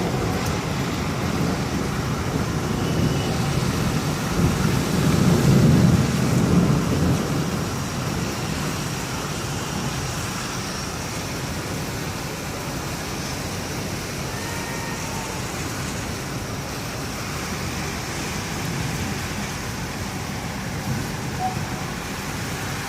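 Heavy rain falling steadily with a rolling rumble of thunder in the first several seconds, loudest about five to six seconds in. After the thunder fades, only the even hiss of the rain remains.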